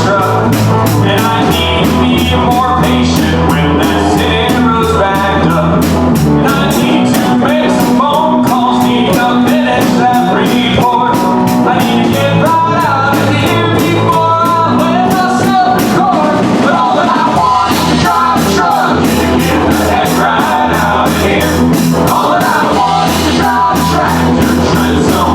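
Live country-rock band playing at full volume: a steady drum-kit beat, bass and electric guitars, with a wavering melodic lead line over them.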